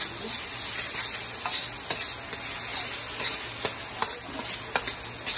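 Onions, garlic and oyster sauce sizzling in hot oil in a wok, stirred with a utensil that clicks and scrapes against the pan at irregular moments.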